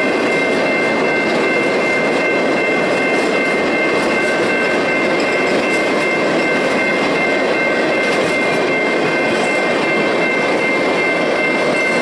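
Freight train cars rolling steadily past on the rails with a continuous rumble, and a few steady high ringing tones held over it throughout.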